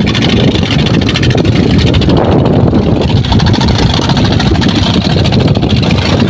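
An engine running steadily at a constant speed, loud and low, with a fast even pulse.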